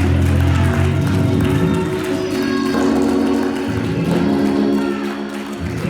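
Organ playing loud held chords over a deep bass, the chords changing a few times.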